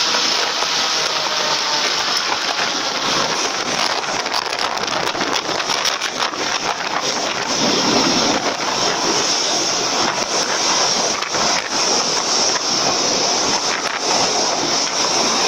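Airboat under way: a steady rushing noise from its engine, propeller and moving air, with wind buffeting the microphone.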